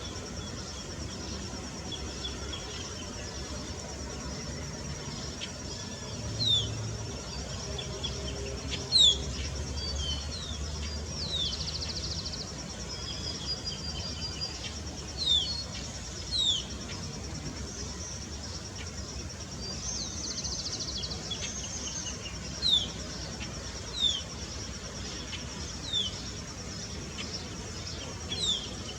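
Small birds giving short, high, down-slurred chirps every second or two, with a couple of brief buzzy notes, over a steady high-pitched insect trill.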